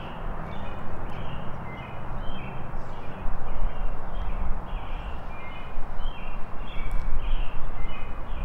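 Birds chirping in short calls repeated about twice a second, over a loud, uneven low rumble that swells from about three seconds in.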